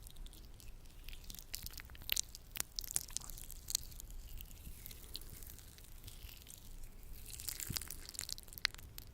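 Latex-gloved hands working sticky lotion: irregular crackles, squishes and small sharp snaps, thickening into a denser crackling patch about seven seconds in.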